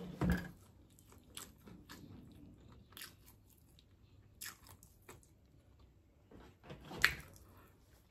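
Close-miked chewing and crunching of spicy chicken wings: scattered short, wet clicks of mouth and food, with a louder bite just after the start and another about seven seconds in.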